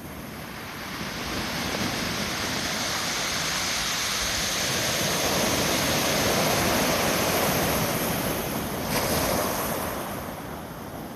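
Pacific surf swollen by an approaching typhoon: a wave breaks and rushes up the beach. The noise builds over a second or two, is strongest in the middle, surges once more near the end, then dies away.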